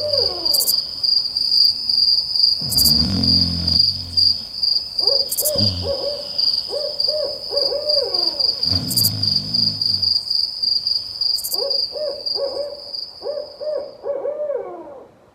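Owls hooting in repeated short phrases, with deeper calls now and then, over a steady high-pitched insect trill. The insect trill stops shortly before the sound fades out.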